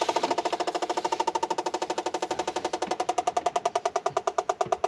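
Electronic gas leak detector (sniffer) ticking in a rapid, even stream of short beeps like a Geiger counter, its probe picking up LPG from a slow leak at the oven's gas compression fitting. The ticks slow down near the end.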